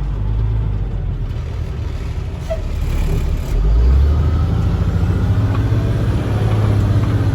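Freightliner box truck's diesel engine running while driving, heard from inside the cab. It grows louder about three and a half seconds in as the truck speeds up.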